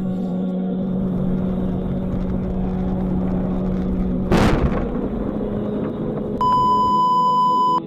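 A car's engine and road noise drone steadily, heard from inside the cabin. One sharp bang sounds about four seconds in. Near the end a steady electronic beep is held for about a second and a half, then cuts off.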